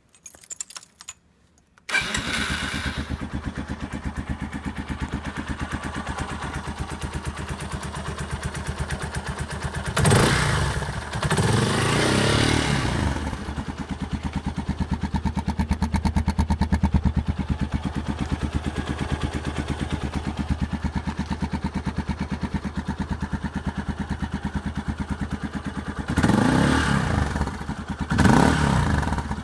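Motorcycle engine fitted with a Tadao exhaust header and K2Tec muffler. After a few short clattering sounds it starts about two seconds in and idles with a steady rapid exhaust pulse. It is revved briefly around ten and twelve seconds and twice more near the end.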